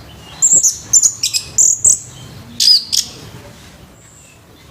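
Orange-headed thrush singing a loud, harsh phrase of quick, high whistled bursts, then one more burst about a second later.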